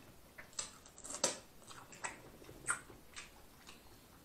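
Close-miked chewing of corn on the cob: irregular mouth clicks and smacks, a few a second.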